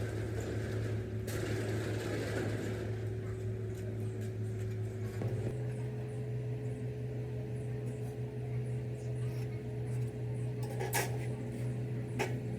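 A machine's motor running with a steady hum, its pitch stepping up slightly about five seconds in, with a few sharp clicks or knocks near the end.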